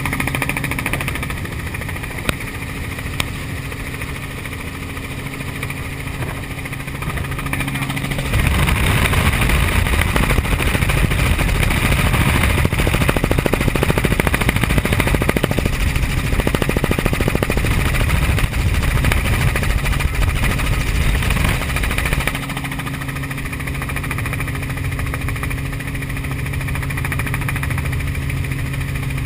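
Helicopter engine and rotor noise during flight: a steady hum. From about eight seconds in until about twenty-two seconds in it gives way to a louder, rougher rushing noise.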